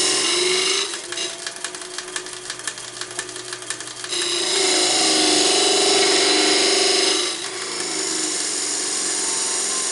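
Wood lathe running, with a turning tool cutting into the spinning wood. The cut comes and goes: light, rapid scraping from about a second in, a louder, heavier cut from about four seconds to seven, then a steadier cut to the end.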